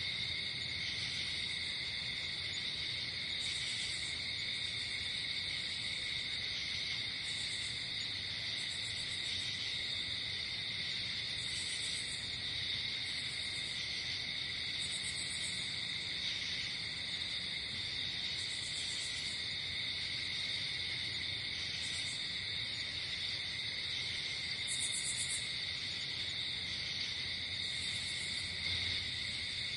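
Night insect chorus: a steady, high, shrill trilling, with short higher buzzing calls repeating every two to three seconds over it.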